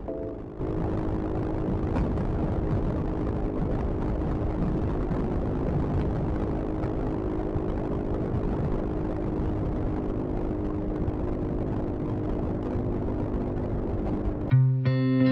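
Steady engine drone and wind rumble of a Yamaha XMAX scooter riding along the road. About a second before the end it cuts to music with electric guitar.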